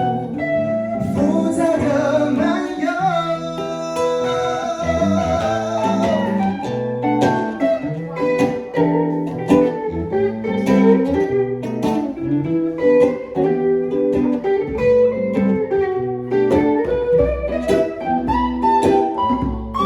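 Acoustic and electric guitars playing together in an improvised jam: a busy run of plucked notes, with a held, wavering lead note in the first few seconds.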